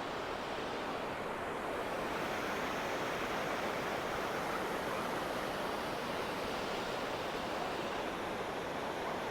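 Mountain waterfall rushing: a steady, even noise of falling water.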